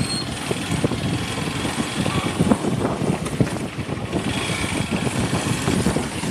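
Motorcycle running at road speed, heard from the rider's position with wind buffeting the microphone in irregular gusts.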